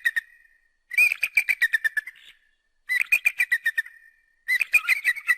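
An eagle calling: runs of rapid, high, chittering notes, each run about a second long and sliding slightly downward, repeated about every one and a half to two seconds.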